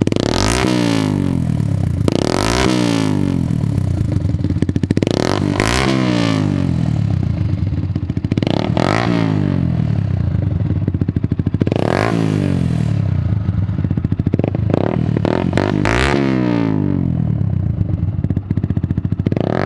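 Yamaha YZF-R125's single-cylinder four-stroke engine, breathing through a Storm aftermarket racing exhaust, revved repeatedly while standing. About every two to four seconds the revs shoot up with a throttle blip and then fall back toward idle.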